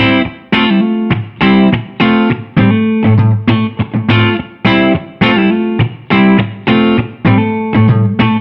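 Electric guitar, a Gibson Les Paul with PAF-style humbucker pickups, playing a repeating riff of struck chords. The chords come about two a second, each ringing and then dying away.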